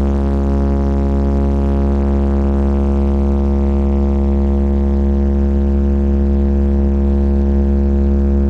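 Blizzard Audio carnival sound system playing a single sustained synth drone at high volume, with very heavy bass under a buzzy held note that does not change pitch.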